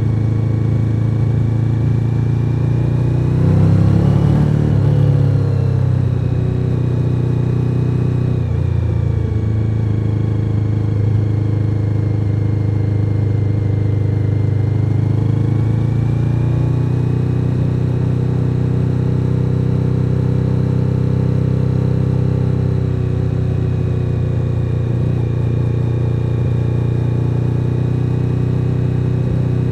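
Suzuki SV1000N's 90-degree V-twin engine running under way, with a louder burst of throttle about four seconds in, then settling to steady cruising.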